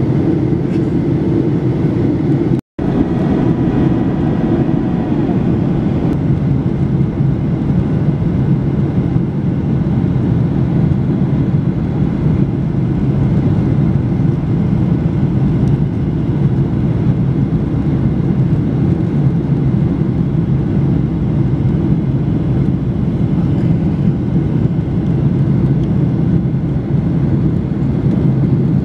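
Steady roar of a Boeing 737-800's CFM56 engines and rushing air, heard from inside the passenger cabin, with the sound cutting out for a moment about three seconds in.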